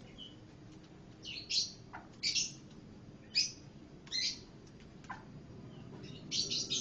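Pancawarna songbird singing: short, harsh chirping phrases about once a second, with two brief falling whistle notes between them.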